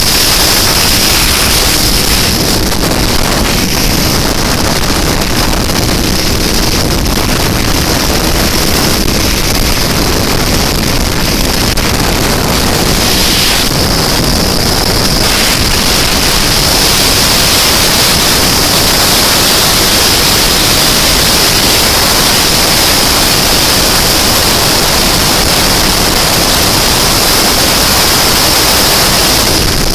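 1964 Ural M-62 flat-twin motorcycle running at speed on the highway, heard as a loud, steady rush of engine, road and wind noise on the microphone.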